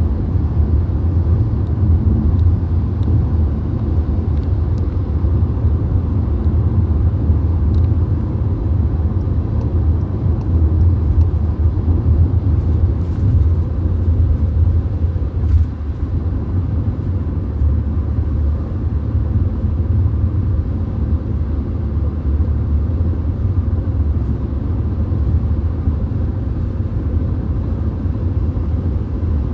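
Steady low road and tyre rumble inside a VW Golf's cabin while it drives at highway speed.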